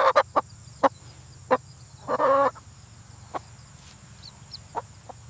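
Chicken clucking: a few short sharp clucks scattered through, and one longer call about two seconds in.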